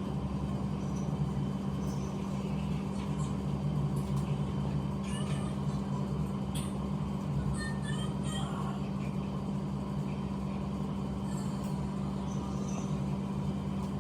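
A steady low machine hum, with scattered light clicks and ticks over it.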